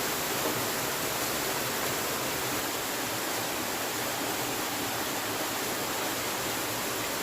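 Steady, even rush of water, with no breaks or changes.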